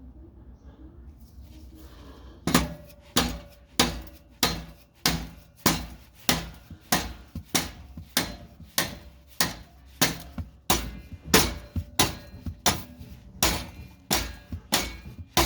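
Steady hammer blows on metal exhaust parts, about one and a half strikes a second, starting about two and a half seconds in, each with a brief metallic ring.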